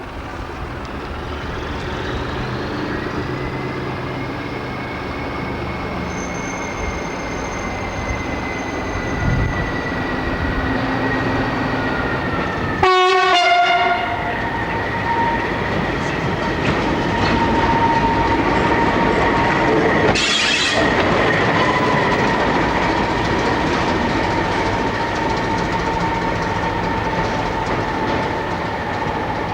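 Preserved diesel train running close by, its engine and wheels making a loud steady noise with a sustained high whine that drifts slowly down in pitch. There is a brief sharp interruption about 13 seconds in and a short burst of noise about 20 seconds in.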